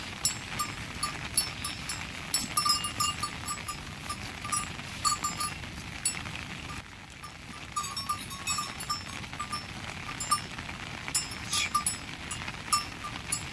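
Small livestock bells clinking irregularly, many short clinks coming in clusters.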